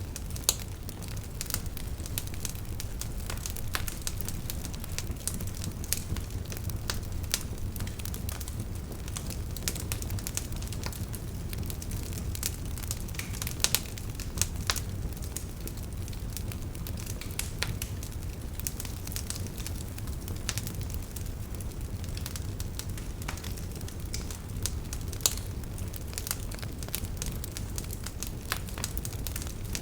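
Wood campfire burning: a steady low rumble of flames with continual crackling and occasional sharper pops of burning wood.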